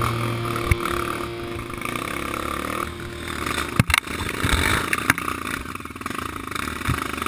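Dirt bike engine running on a trail ride, with several sharp knocks and clatter. The knocks come at about 0.7 s, twice close together near 4 s, and again near 5 s.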